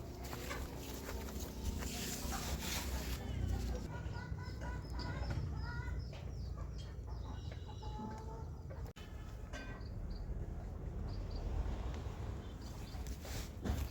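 Chickens clucking, with runs of short repeated calls through the middle, over a steady low rumble.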